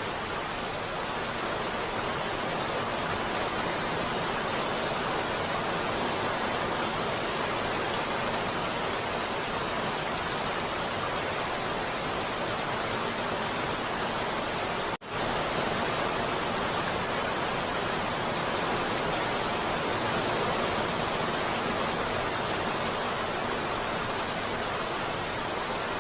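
Heavy rain falling as a steady, even hiss that breaks off for an instant about fifteen seconds in.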